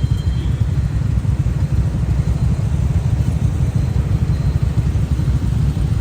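Motorcycle on the move: a loud, steady low rumble that flutters unevenly throughout.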